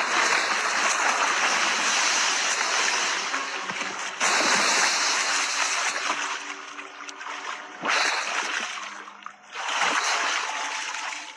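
Water splashing and sloshing in a dense, steady rush, changing abruptly about four seconds in, near eight seconds and again around ten seconds.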